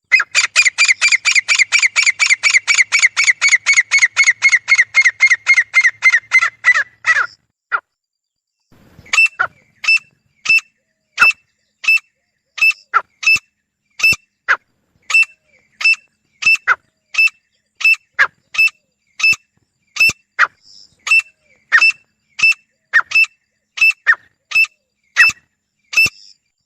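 Grey francolin pair calling: a fast run of ringing notes, about five a second, lasting some seven seconds. After a short pause comes a long series of sharp, evenly spaced calls, about three every two seconds.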